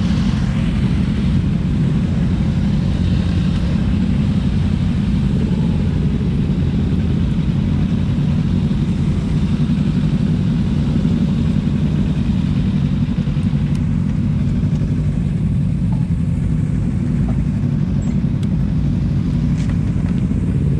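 Kawasaki Z300's parallel-twin engine idling steadily, a low even rumble with no revving.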